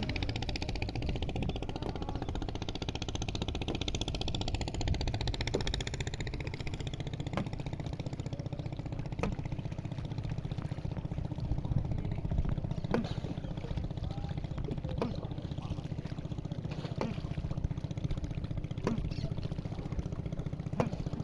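A small engine running steadily, with sharp knocks about every two seconds from about a third of the way in.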